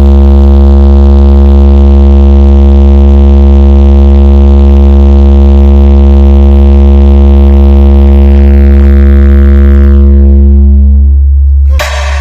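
Sound horeg carnival sound system blasting one long, unbroken deep bass drone at full level. Its higher overtones fade away near the end, just before a brief louder burst cuts in.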